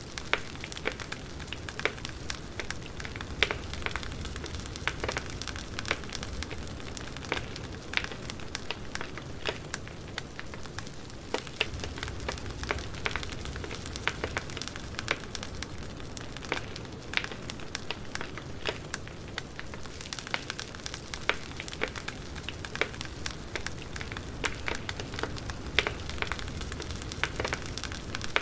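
Campfire burning with irregular sharp crackles and pops, several a second, over a steady low rumble of flames.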